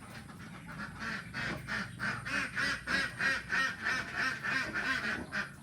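Ducks quacking: a rapid series of short quacks, about three to four a second, getting louder.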